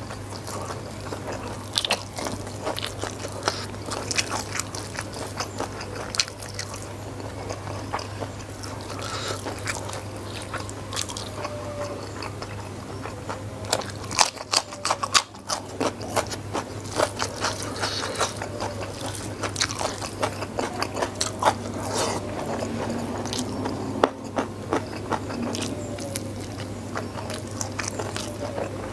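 Close-miked chewing with many short crunches as a person eats raw vegetables, salted fish and rice by hand.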